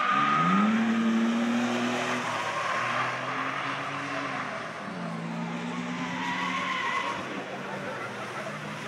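Several cars passing at speed one after another, engines under acceleration. An engine note rises in pitch at the start, then steady engine notes change pitch about two, three and five seconds in as the cars come through.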